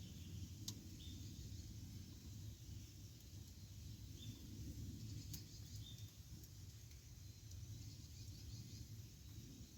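Faint campfire burning with a low steady rumble and two sharp crackling pops, with short bird chirps and insect ticking in the background.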